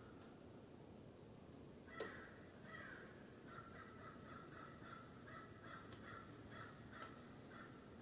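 Faint birds calling: a run of repeated notes from about two seconds in to near the end, with a few short high chirps scattered through. A single click comes about two seconds in.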